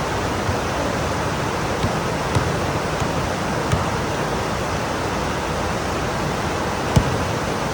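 Heavy rain pouring steadily, a dense even hiss, with a few sharp taps of drops striking something, the loudest near the end.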